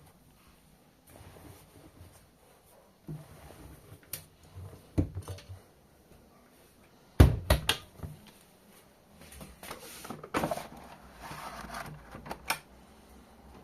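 Scattered knocks and clunks of things being handled, the loudest about seven seconds in with a second knock just after it.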